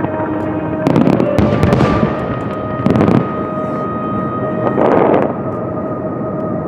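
Fireworks bursting overhead: three loud bangs about a second, three seconds and five seconds in, each followed by crackling.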